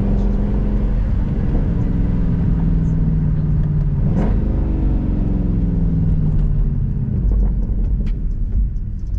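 Mercedes-AMG C63 (W204) 6.2-litre V8 with its revs falling as the car slows, a sudden brief rise in revs about four seconds in, then the revs sliding down again and settling into a deep low rumble near the end.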